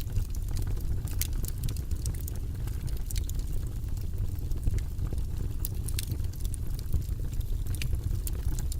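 Wood fire burning in a fireplace: a steady low rumble of flames with sharp, irregular crackles and pops, one or two a second.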